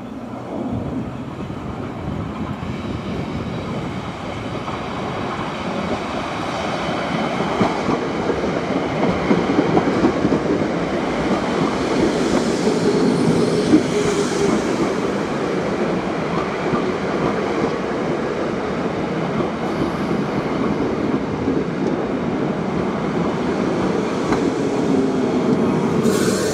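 Electric multiple-unit passenger train running on the rails, its wheels rumbling on the track, growing louder over the first several seconds and then staying loud.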